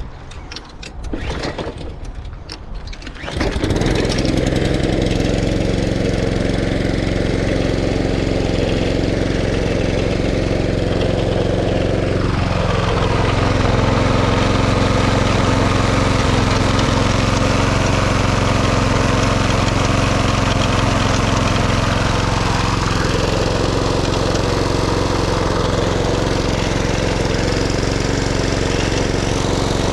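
Stiga Euro 50SH lawnmower's engine being pull-started: a few short pulls, then it catches about three and a half seconds in and runs steadily.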